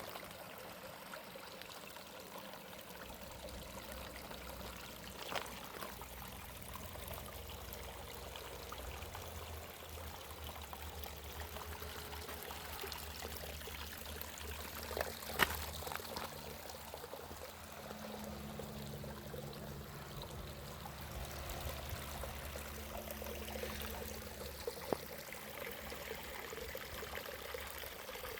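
Water trickling and running steadily, like a small stream, with a low steady hum beneath. Three short sharp clicks or knocks stand out, the loudest about halfway through.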